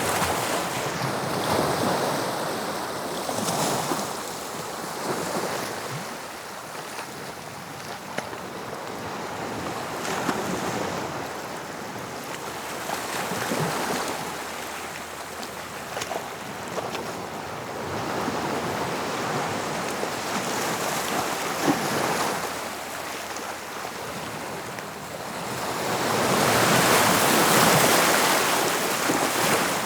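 Sea waves breaking and washing on the shore, the surf swelling and falling back every few seconds, with a larger wave building near the end. Some wind buffets the microphone.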